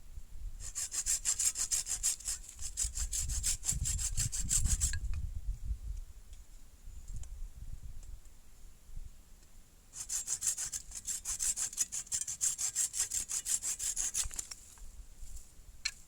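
Hand saw cutting through wood in quick, even back-and-forth strokes, in two bouts of about four seconds each with a pause between.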